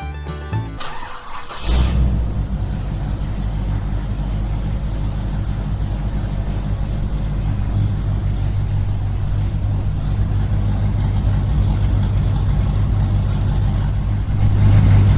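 A small engine starts with a sudden loud onset about a second and a half in, then runs steadily, a little louder near the end.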